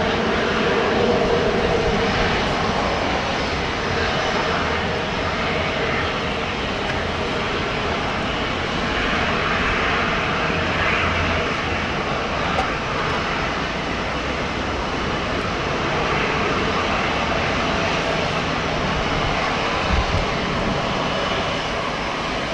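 Jet airliner engine noise from the airport: a steady rushing noise that swells slightly partway through, with a short low bump near the end.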